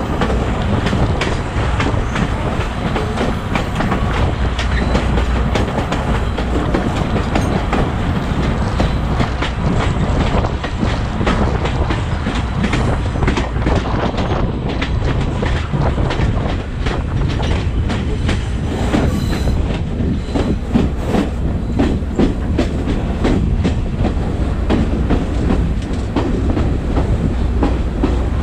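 Passenger train running along the track, its wheels clattering steadily over the rails with a continuous rumble.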